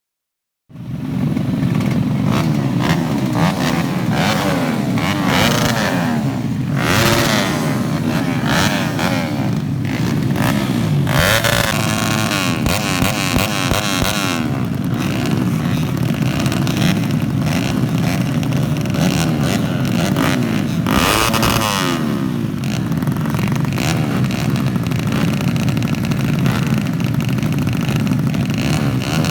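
Several modified grasstrack racing motorcycles running on a dirt circuit, starting about a second in. The engines rev up and down through the gears in overlapping waves.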